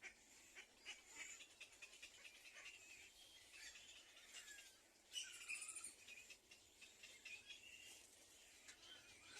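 Faint bird chirps and call notes, with a louder cluster of calls about five seconds in.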